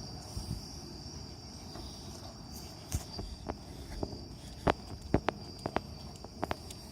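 Insects chirping in one steady, high-pitched trill, with a scatter of sharp, irregular clicks and taps from about halfway through.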